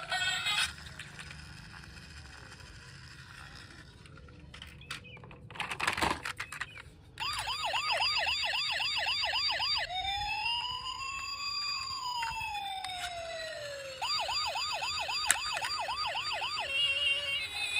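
Electronic toy-vehicle siren: a fast yelping warble of about three to four sweeps a second, then one slow wail that rises and falls, then the fast warble again. Before it come a few seconds of faint handling clicks, and music starts near the end.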